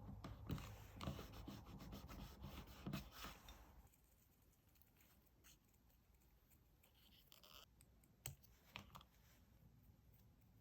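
Hands working paper and stationery: rubbing and scratching on paper for about four seconds, then much quieter, with a few faint taps and clicks.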